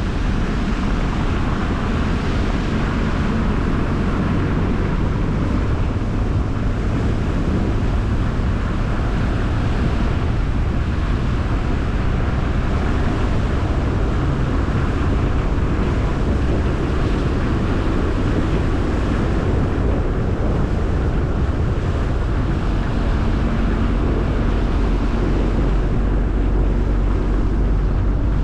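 Car driving at a steady speed: continuous tyre and road noise with a low engine hum.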